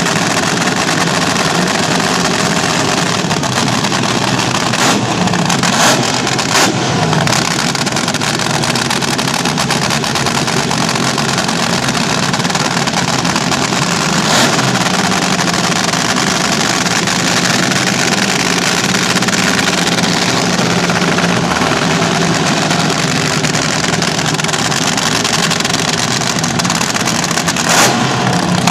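Vintage front-engine slingshot drag racers running loud and steady, with several sharp cracks cutting through.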